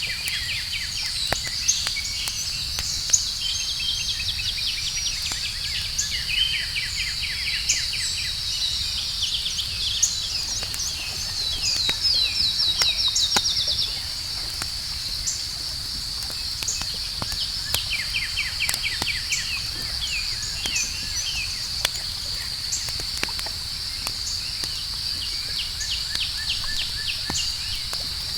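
Campfire crackling with scattered sharp pops, over a steady high chorus of night insects chirping. A louder, faster trill comes in about twelve seconds in and lasts about two seconds.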